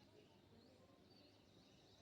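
Faint, distant birdsong: several small birds chirping and warbling in short high phrases over a low, steady background rumble.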